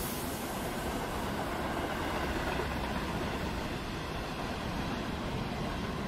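Coal train hopper wagons rolling past, a steady noise of steel wheels on rail, as the last wagons of the train go by near the end.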